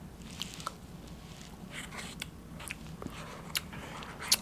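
A person chewing and biting food close to the microphone: wet smacking mouth sounds and short clicks, the loudest near the end.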